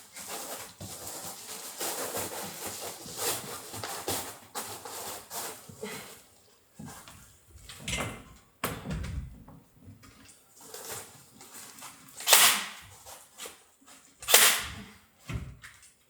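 Building work: irregular rustling and clattering, then scattered knocks, and two sharp, loud bangs about two seconds apart near the end.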